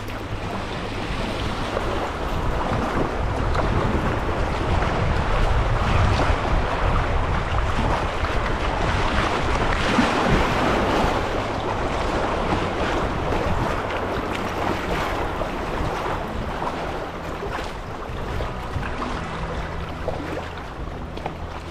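Steady rushing noise of wind buffeting the microphone and moving river water, swelling louder around the middle and easing toward the end.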